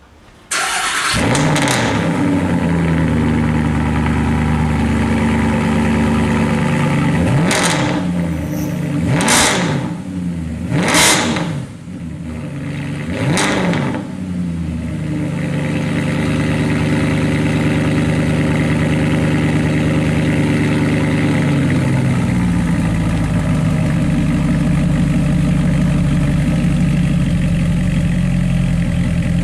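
Mercedes-Benz SLS AMG's 6.2-litre V8 through a Capristo exhaust, cold-started with the exhaust flaps open: it fires with a sudden loud burst about half a second in and settles into a steady idle. It is blipped four times between about 7 and 14 seconds in, then idles steadily again, its note deepening about 22 seconds in.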